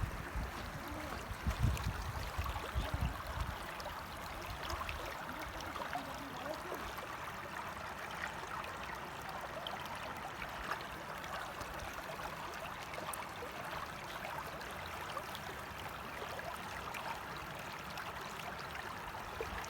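Steady rush of flowing water, with wind buffeting the microphone for the first few seconds.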